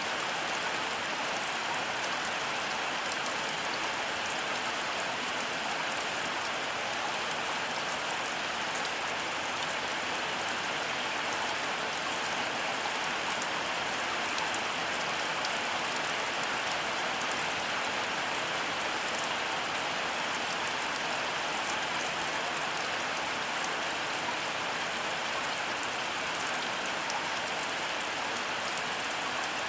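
Heavy rain falling steadily, a dense even hiss with fine pattering of drops on surfaces.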